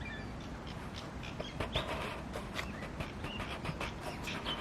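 A tui calling: a string of short clicks and brief high chirps.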